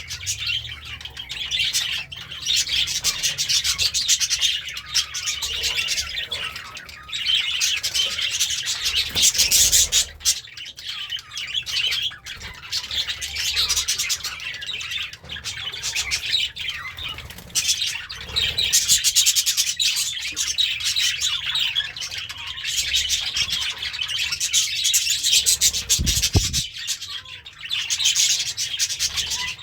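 Budgerigar warbling and chirping in long runs of fast, scratchy chatter with short pauses between. A brief low thump comes near the end.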